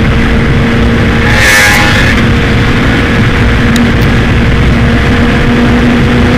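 2015 Yamaha R1's inline-four engine running loud and steady at high revs, its pitch holding level, with a brief hiss about one and a half seconds in.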